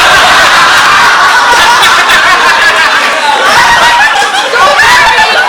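Live audience laughing loudly, many voices at once, a steady wall of laughter.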